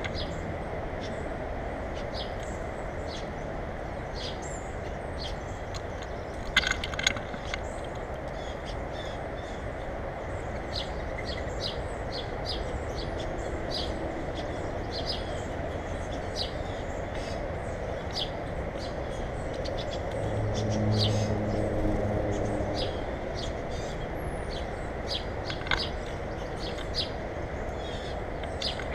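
Birds chirping, many short high calls throughout, over a steady background rumble. A couple of sharp clicks come about seven seconds in, and a low engine-like hum swells and fades a little after two-thirds of the way through.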